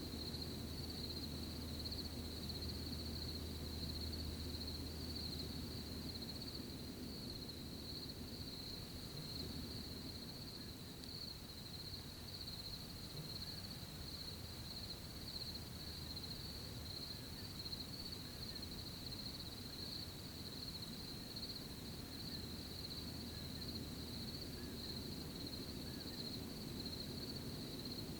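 Crickets chirring in a steady, unbroken high-pitched chorus over a soft, low background rumble.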